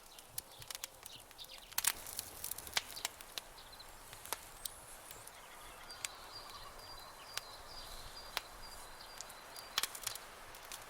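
Wood campfire crackling, with irregular sharp pops that bunch together about two seconds in and again near the end. A faint, high, pulsing chirp runs through the middle stretch.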